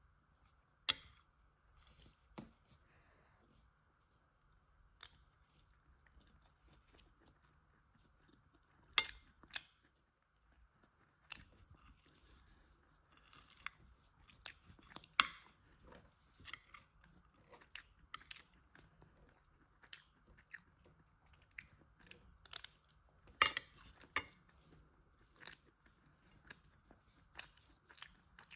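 Close-miked biting and chewing of crunchy food. A few loud, sharp bites are spread through, each followed by quieter crisp crunching chews, which come thicker in the second half.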